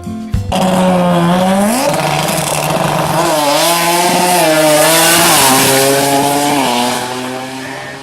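Tuned car engine running hard at high revs, with a hissing edge. Its pitch climbs, dips and steps up and down over several seconds, then fades near the end.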